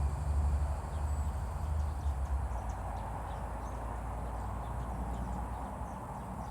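Wind buffeting the microphone as a low rumble that starts suddenly and is strongest in the first two seconds, with faint bird chirps above it.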